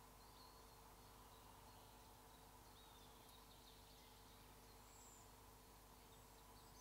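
Near silence in woodland: a few faint, distant bird chirps over a low steady hum.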